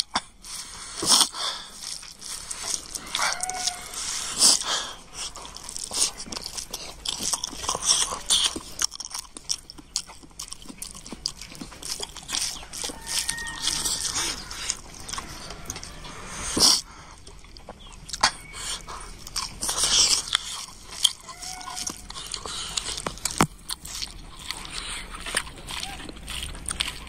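Close-up eating sounds of a man chewing a mouthful of rice and pork curry eaten by hand, with irregular mouth clicks and smacks throughout.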